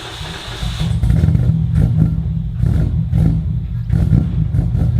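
Nissan Skyline engine being started: the starter whirs for about a second, then the engine catches and runs with an uneven, pulsing note. The engine is freshly filled with new oil and is hard-worn, and it runs smoky.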